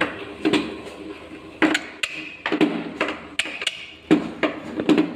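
Irregular hard plastic knocks and clatters, about one or two a second, from a children's ride-on swing car being handled or fitted together.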